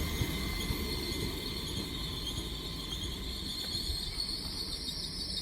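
Train at a station platform: a steady low rumble with a steady high-pitched hiss over it.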